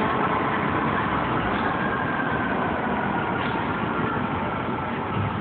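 Fire engine's diesel engine running steadily, with a faint high whine that drifts slowly down in pitch.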